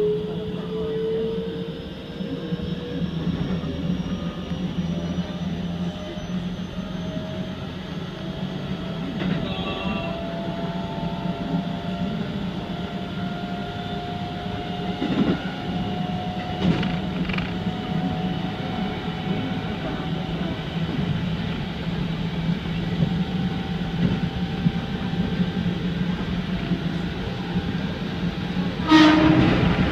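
Keikyu 2100 series electric train running, heard from behind the driver's cab: a steady low rumble with a motor whine that glides slowly upward in pitch as the train gathers speed, and a few wheel clicks over rail joints. Near the end the sound jumps suddenly louder as the train enters a tunnel.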